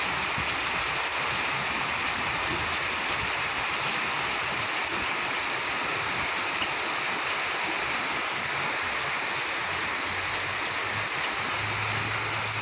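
Heavy rain falling steadily, a dense even hiss. A faint low hum comes in near the end.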